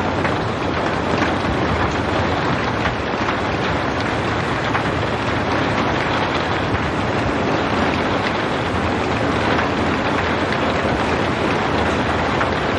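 Steady rain falling without thunder: a dense, even hiss with faint ticks of individual drops scattered through it.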